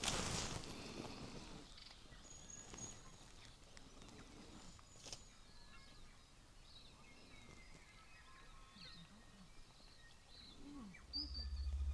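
Faint scattered bird chirps and whistles of songbirds in native bush. A brief swish of noise at the start, and a steady low hum starting near the end.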